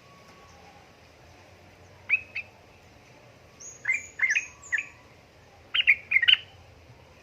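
Yellow-vented bulbul (trucukan) calling in short, sharp bursts of chirping notes, three groups of them a couple of seconds apart.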